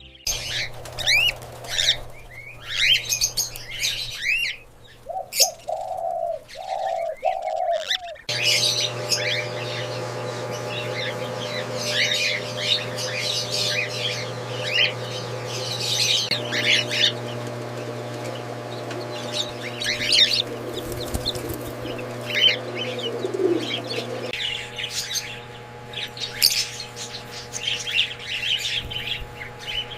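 Many cockatiels chirping together in a dense, overlapping chatter, with three low coo-like calls at about five to seven seconds in. From about eight seconds in, a steady low hum runs under the chirping.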